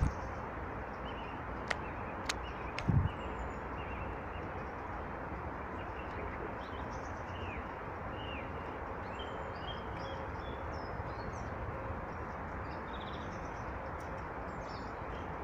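Small birds chirping briefly and repeatedly over a steady rushing background noise. A few sharp clicks come in the first few seconds, and a low thump about three seconds in.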